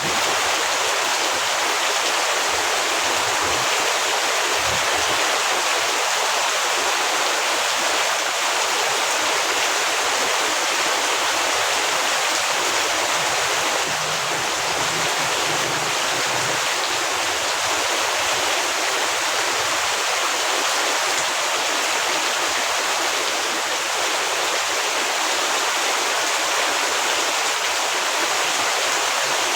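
Heavy rain falling, a dense steady hiss with no gaps and little low rumble.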